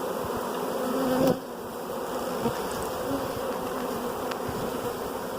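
A swarm of honey bees buzzing in a dense, steady drone. A louder buzz swells and cuts off sharply about a second in.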